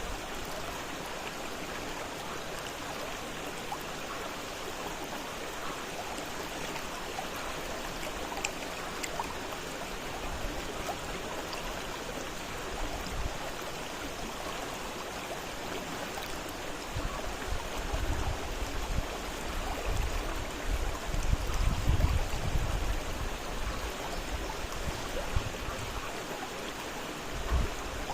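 Fast-flowing river rushing steadily, with uneven bursts of low rumble in the second half.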